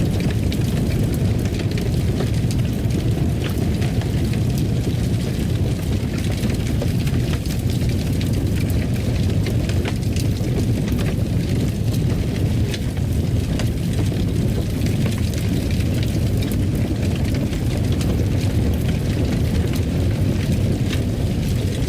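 Fire burning in a fireplace: a steady low rumble with scattered small crackles and pops throughout.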